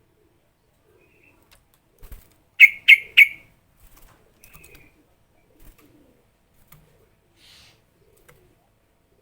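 Yellow-vented bulbul (trucukan) calling: after a couple of seconds of quiet, three loud, sharp chirps in quick succession, then a few fainter short notes. A soft low thump comes just before the chirps.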